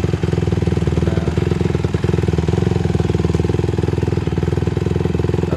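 Dirt bike engine idling steadily close by, a fast even pulsing at a constant pitch with no revving.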